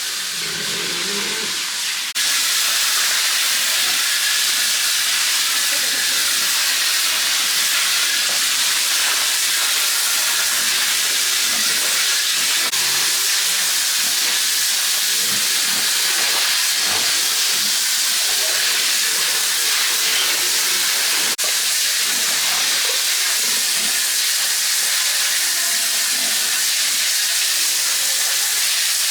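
Steady loud hiss of rushing noise with no pitch to it, stepping abruptly louder about two seconds in.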